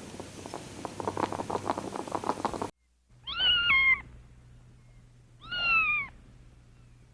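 Domestic cat meowing twice, each meow under a second and dropping in pitch at the end. Before the meows, a fast run of clicks or knocks stops abruptly.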